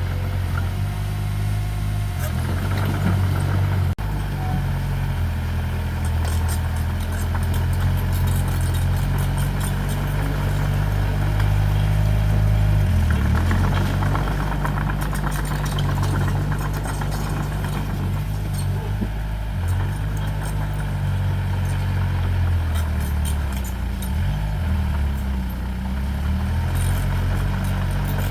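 Heavy-equipment engine running steadily at a low pitch. Its pitch dips and wavers briefly about halfway through and again near the end, with scattered light clicks over it.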